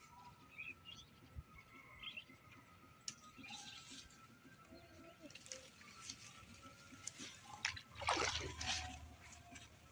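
Light splashing and dribbling of water, with a louder splash about eight seconds in.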